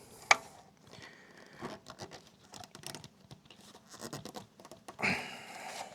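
Hands working a rubber coolant hose onto its pipe: scratching, rubbing and small clicks, with one sharp click just after the start and a longer rustle about five seconds in.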